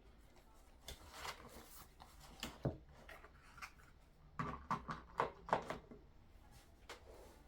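Light handling noises: a few soft rustles and knocks, then a quick run of sharper clicks and taps about halfway through.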